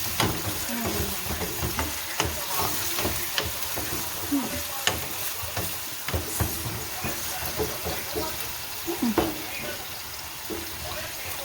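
Food sizzling in hot oil in a pan as it is stirred, with irregular sharp knocks and scrapes of the spoon against the pan over a steady frying hiss.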